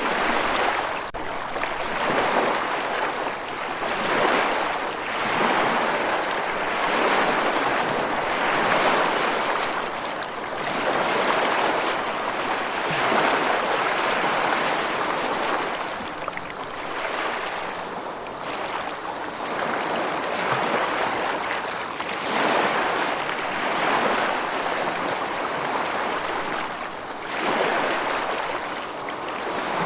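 Steady rushing water that swells and eases every couple of seconds, with no thunder.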